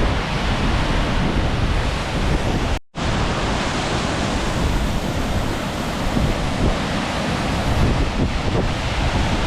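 Waterfall rushing steadily, water pouring down in a dense, even noise. The sound breaks off for an instant about three seconds in.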